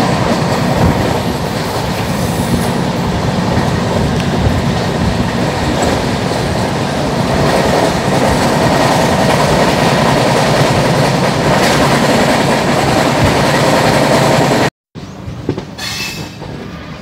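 Shan-e-Punjab Express passenger train running at speed, heard from on board: a loud, steady rush of wheel and rail noise. About fifteen seconds in it cuts off abruptly to a quieter stretch of train noise.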